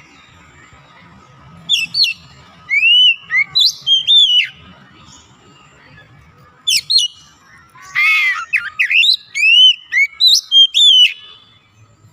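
Oriental magpie-robin singing: loud whistled phrases of quick rising and falling notes in two bouts, the second opening with a harsh rasping note.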